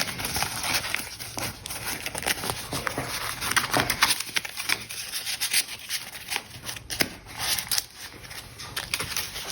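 Paper and card rustling and rubbing as the pages and tucked-in pieces of a handmade junk journal are handled and turned, with irregular small crackles and taps throughout.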